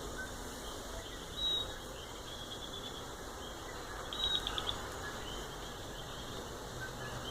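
Coqui frogs and insects calling in a steady chorus, with one short high chirp about a second and a half in and a quick run of about five high chirps about four seconds in.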